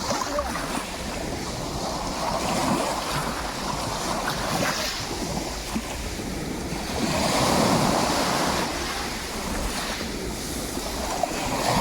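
Sea surf washing in and out, with a louder wave surging about seven seconds in. Wind rumbles on the microphone.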